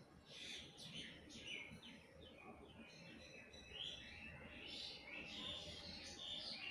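Birds chirping: a busy run of short, high chirps, many of them sweeping down in pitch.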